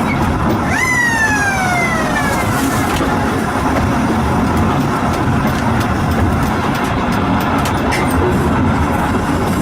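Steady, loud rumbling noise of a moving vehicle. About a second in, a pitched tone jumps up and then slides down over about two seconds, and a few faint clicks follow later.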